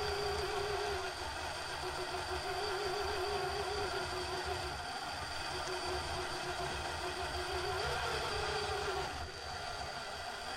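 RC rock crawler's electric motor and gears whining steadily under throttle, the pitch wavering as the throttle changes, with a brief drop-out about nine seconds in.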